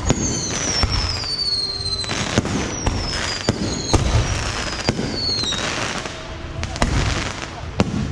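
Bottle rockets going off in a mass barrage: several high whistles falling in pitch, over many sharp cracks and bangs. The whistles die away after about six seconds, while the bangs go on.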